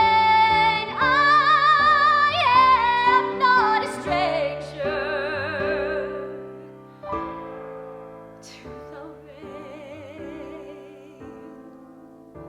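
Female voice singing the last sustained notes of a musical-theatre ballad with wide vibrato over piano chords. The voice fades out about halfway through, and the piano rings on and dies away.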